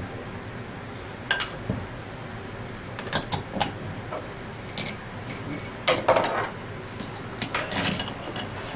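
Small metal parts and tools clinking and tapping on a workbench during reassembly of a scroll pump, a series of sharp clicks with a few short ringing tones.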